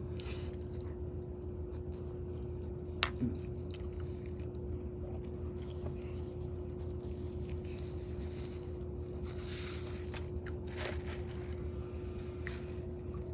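Close-miked chewing and wet mouth sounds of someone eating, with a sharp click about three seconds in, over a steady low electrical hum.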